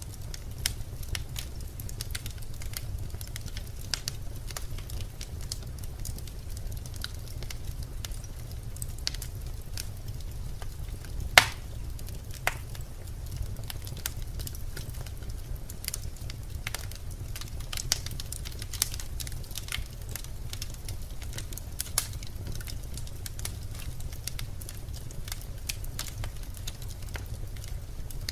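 Birch logs burning in a fireplace, crackling with frequent small pops and one louder snap about eleven seconds in, over a steady low rumble.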